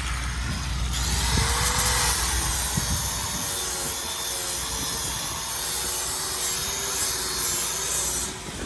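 Steady rasping of a tool cutting and dressing the rubber lugs of a tractor-pulling tire, putting a fresh sharp edge on them; it eases off shortly before the end.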